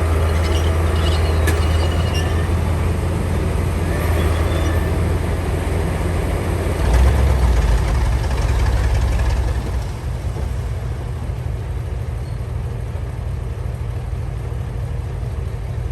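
Heavy diesel earthmoving machinery running under load with a deep, steady rumble. It swells about seven seconds in, then drops to a quieter, steady running about ten seconds in.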